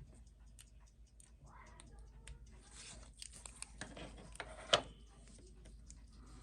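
Small metal clicks, taps and light scrapes of a watch, its steel bracelet and hand tools being handled on a watchmaker's bench, with one sharper clink a little under five seconds in.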